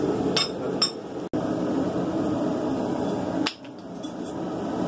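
Steady roar of a blacksmith's forge with a few sharp metal-on-metal clinks from hammer and anvil work: two light ones in the first second and a louder one about three and a half seconds in.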